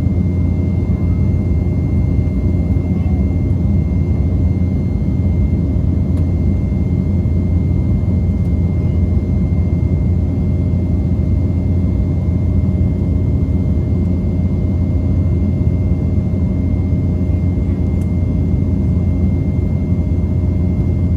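Steady in-flight cabin noise of an Embraer E195 airliner after takeoff: an even, loud low drone of its turbofan engines and airflow, with a thin steady whine above it.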